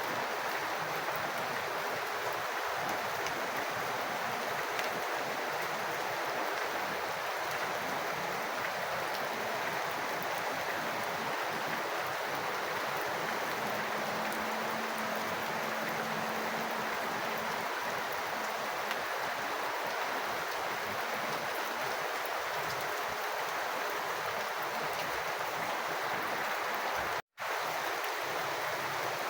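Rain water falling and running, a steady even hiss of water that briefly cuts out for a split second near the end.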